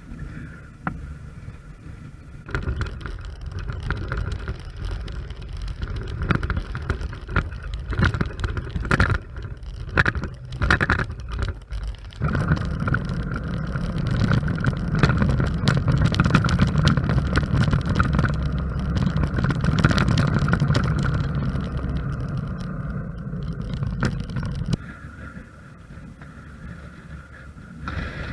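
Motorcycle running along an unsealed gravel road: engine and road noise with scattered clicks and knocks. It gets louder and steadier about twelve seconds in, then drops away a few seconds before the end.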